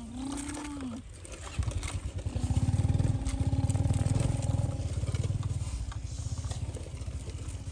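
An engine running with a fast, low chugging that starts suddenly about a second and a half in, swells, then slowly dies down. Before it comes a short wavering tone that rises and falls.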